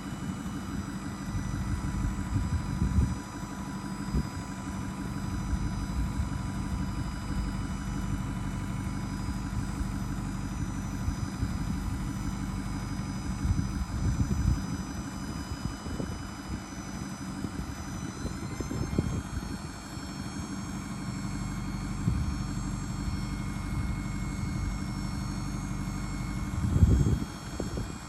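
2008 Ford F-550 dump truck's engine idling steadily, with a few brief low bumps.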